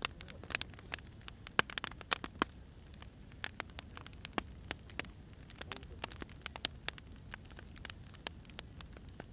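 Wood fire burning, the logs crackling with irregular sharp pops and snaps over a low steady rumble. The snaps are busiest in the first few seconds and sparser later.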